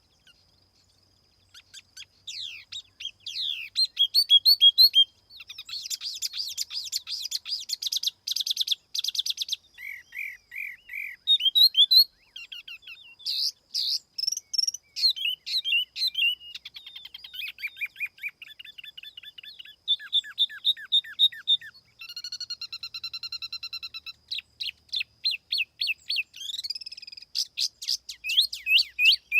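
A tiểu mi songbird singing a long, varied song of rapid chirps, fast trills, buzzy runs and lower whistled phrases. It starts about a second and a half in and continues with only short pauses.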